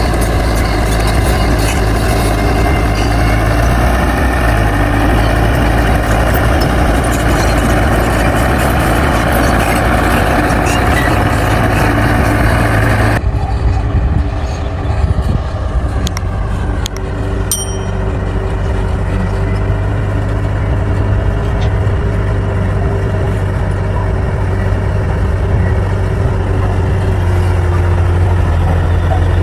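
Heavy diesel engine of a bulldozer running steadily under load with a deep, even drone. About halfway through, the sound abruptly turns duller, and a few sharp clicks follow a few seconds later.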